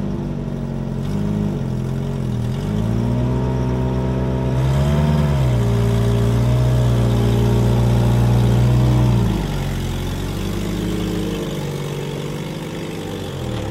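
Toyota pickup's engine, just started after sitting for almost two years, being revved: it climbs and dips twice, holds at higher revs for about four seconds, then drops back to a lower, steady idle.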